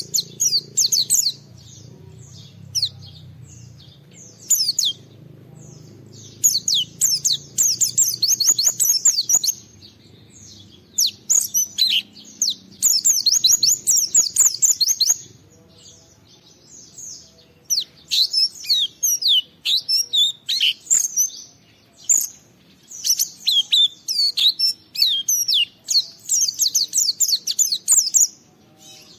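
White-eye (pleci) singing in rapid, high twittering phrases of one to two seconds, separated by short pauses.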